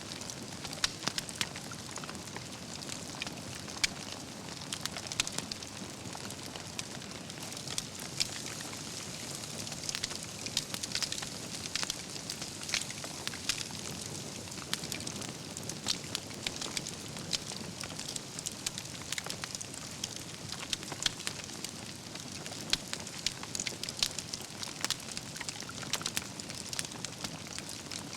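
Campfire of burning wood logs, crackling steadily with frequent sharp pops and snaps scattered over a low, steady rush of flame.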